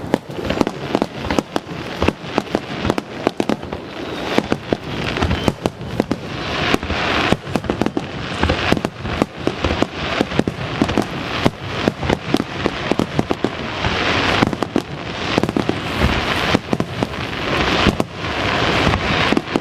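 Fireworks display: many aerial shells bursting one after another, with sharp reports and crackling between them, echoing at a distance.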